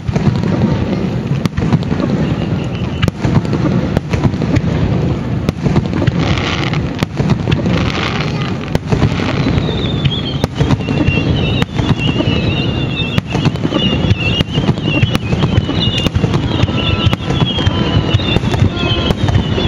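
Large aerial firework shells bursting in rapid succession: repeated sharp booms over a continuous low rumble. From about halfway, high whistles sliding down in pitch repeat among the bursts.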